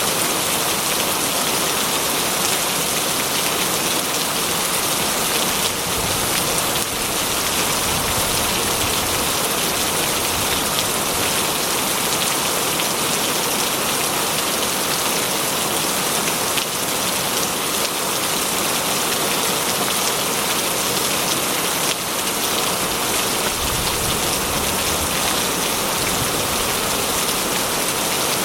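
Heavy rain falling steadily on a corrugated metal roof, a dense, even patter.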